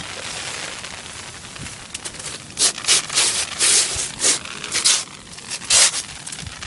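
Hailstorm: a steady hiss of hail and rain falling, with a run of about eight loud, rough noise bursts starting about two and a half seconds in and stopping about a second before the end.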